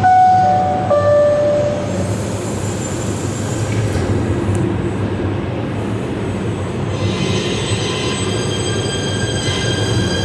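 PATH train in the station: a descending two-note chime sounds at the start, over a steady train rumble. About seven seconds in, a steady high-pitched squeal with several overtones sets in as the wheels run through the curved track.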